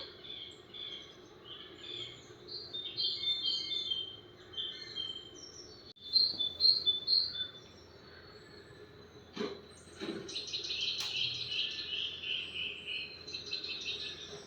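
Small birds chirping in short, repeated high notes, with a faster, denser run of chirps over the last few seconds. Two short knocks come about nine and a half and ten seconds in.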